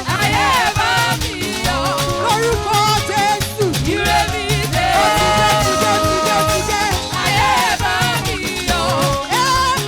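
Upbeat live praise music from a church choir and band: a steady drum-and-bass beat with voices singing a bending melody over it.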